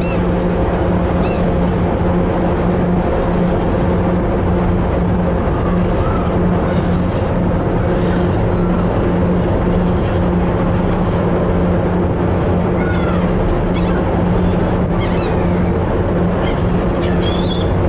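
The ferry's engine drones steadily, with gulls giving short high calls over it now and then, several in a row near the end.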